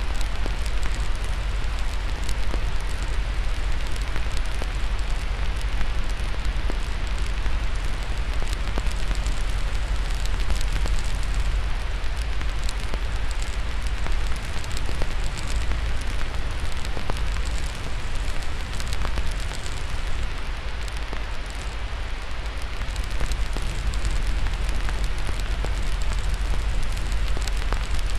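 White noise with a deep, steady rumble, layered with crackling fire: many small sharp pops and snaps scattered over an even hiss.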